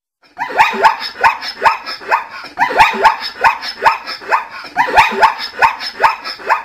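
A dog barking rapidly, about three barks a second, in three runs with short pauses between them.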